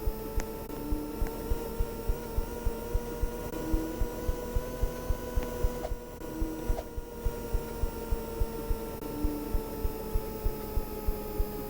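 Washing machine running: a steady motor whine that drifts slightly in pitch, with regular low thumps about two to three times a second from the turning drum.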